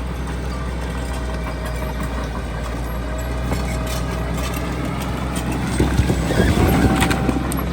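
Heavy diesel earth-moving machinery running with a steady low drone and scattered metallic clanks. About six seconds in it grows louder for a second or two with rumbling and rattling.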